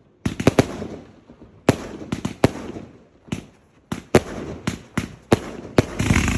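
Fireworks going off: a run of sharp bangs, roughly two a second, each with a short rumbling tail. The bangs crowd into a dense cluster near the end.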